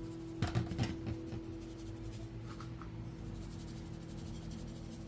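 A short run of light clicks and knocks about half a second in, then faint small ticks, like dishes or cutlery being handled, over a steady low hum.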